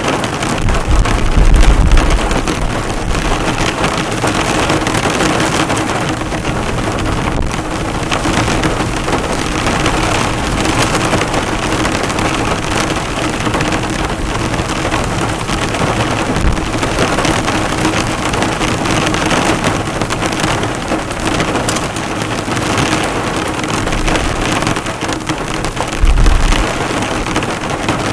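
Heavy rain drumming steadily on a car's hood and body, the drops bouncing off the metal. A deep low rumble swells briefly twice, about a second and a half in and near the end.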